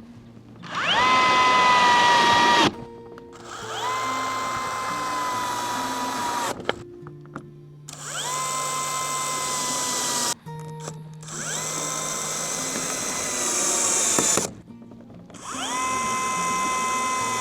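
Power drill run in five bursts of two to three seconds each, its whine climbing to speed at the start of each run and then holding steady, while clear corrugated PVC panels are drilled and screwed onto a chicken coop.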